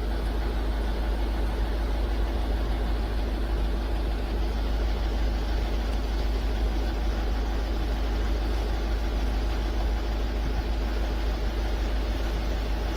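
A steady low mechanical hum, with no breaks or changes.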